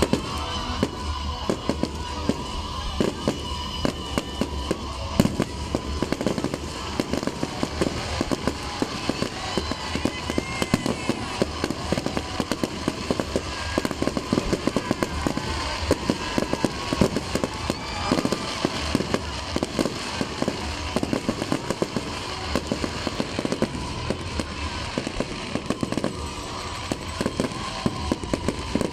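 Aerial fireworks going off in a rapid, unbroken barrage of bangs and crackles.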